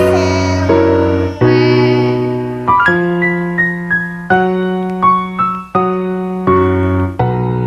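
Karaoke backing track on electric piano playing a children's song melody over held chords and a bass line, with no singing. The notes and chords change about once a second.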